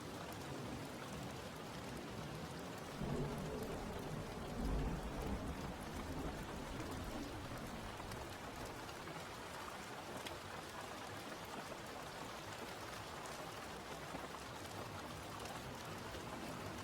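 Steady rain falling, an even hiss, with two low rumbles swelling up about three and five seconds in.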